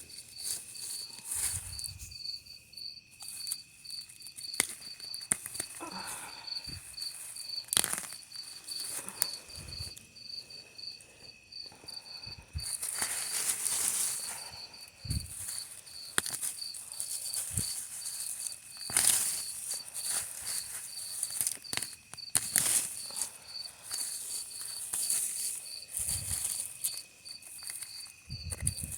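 Digging in soil and rock: irregular knocks and scrapes, with several louder rasping scrapes, over steady insect chirping.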